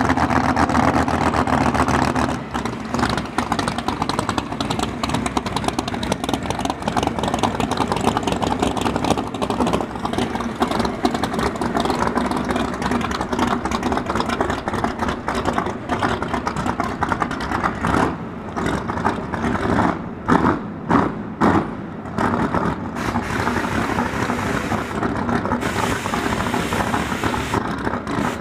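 LS-swapped Fox-body Mustang's V8 at high revs during a burnout for the first two seconds, then running loudly near the starting line. Its loudness rises and falls sharply several times around twenty seconds in.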